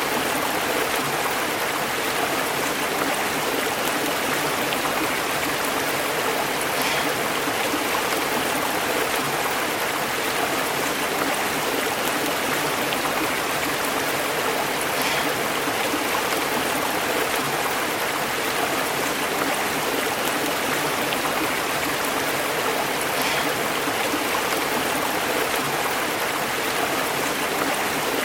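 Stream water flowing and bubbling over rocks, a steady, even rush with small splashes now and then.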